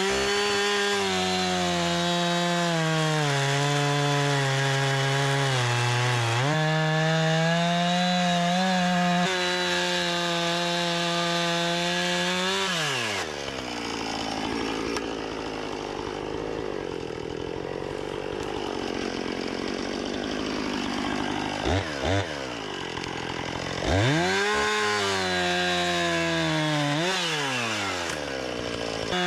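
Gas chainsaw cutting through wood: it revs up, runs at full throttle with its pitch sagging as the chain bites, and drops to idle about thirteen seconds in. Around twenty-two seconds it gives two quick throttle blips, then revs up again about two seconds later and cuts again.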